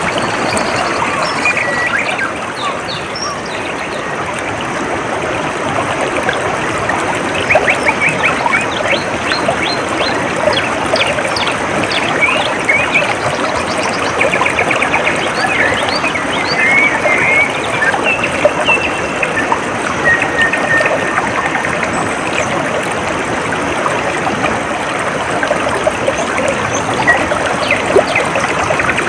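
Shallow water trickling and flowing steadily, with small birds chirping and trilling over it in short, quick calls throughout.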